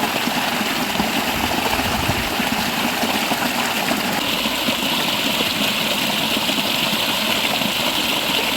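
River water running, a steady rushing noise. A brighter hiss comes up about four seconds in and holds.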